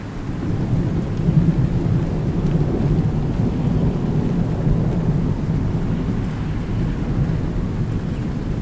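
Rolling thunder over steady rain: a deep rumble swells during the first second or so and keeps rumbling, under a continuous hiss of rainfall.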